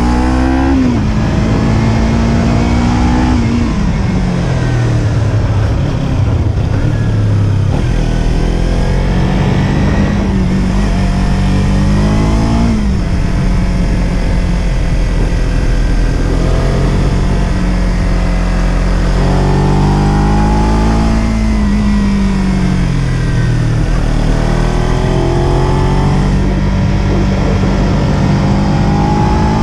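Kawasaki Z300's 296 cc parallel-twin engine on the move, its pitch repeatedly climbing under throttle and then falling away as the rider eases off and shifts.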